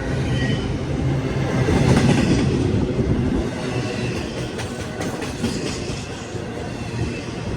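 CSX freight train rolling past, its wheels clattering over the rail joints; the sound is loudest about two seconds in and then eases off.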